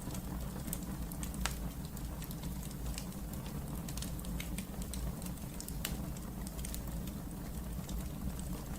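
Wood fire burning in a fireplace: a steady low rumble of the flames with frequent sharp crackles and pops scattered through, a few louder snaps among them.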